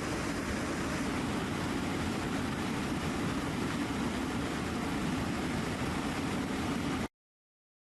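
Military aircraft engines running steadily, a constant even roar that cuts off abruptly about seven seconds in.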